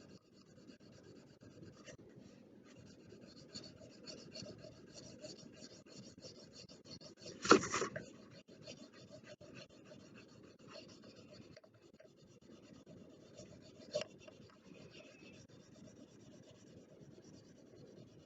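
Steady scratchy strokes of colouring on paper, filling in a background, with one sharp knock about halfway through and a smaller click later on.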